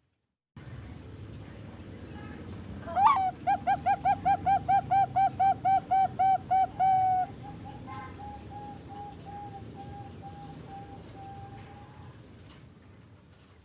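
A young Bangkok-type zebra dove (perkutut), about three and a half months old, singing: a sharp rising opening note, then a fast run of loud, even coos at about four a second for nearly four seconds, trailing off into a fainter, quicker run of notes.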